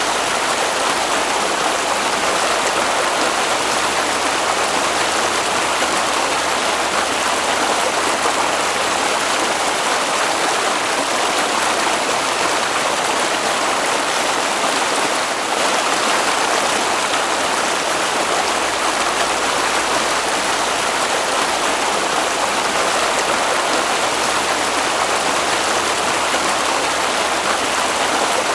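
Water flowing in a stream, a steady, even rush that does not change.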